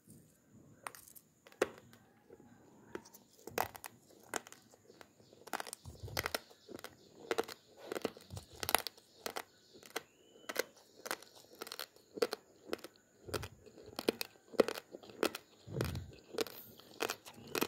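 Raw basmati rice grains being chewed: a run of crisp crunches, sparse at first, then coming faster and louder, about two a second, after about five seconds.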